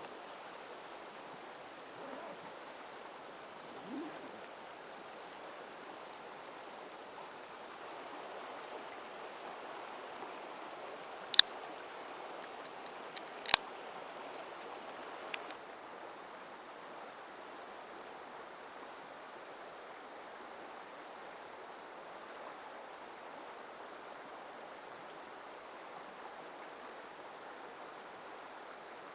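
River water flowing steadily. Near the middle, two sharp clicks about two seconds apart, then a fainter one.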